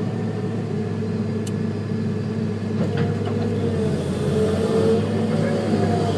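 Heavy diesel engines of earthmoving machines, an excavator loading a wheel tractor-scraper, running steadily under load. The engine pitch dips and rises a little in the second half.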